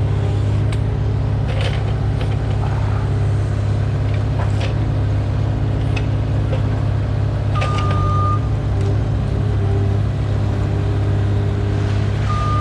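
A truck engine running steadily with a deep, even hum. A single short high electronic beep sounds about two-thirds of the way through.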